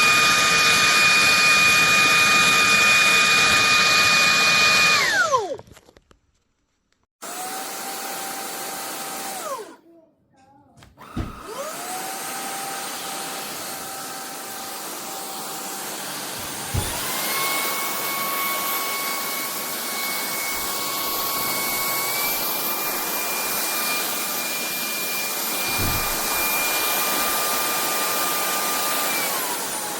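Cordless stick vacuum's motor running with a steady whine. It winds down to a stop about five seconds in, starts and stops again, then spins back up. It steps up through its power settings to a higher whine and drops back to the lower setting near the end.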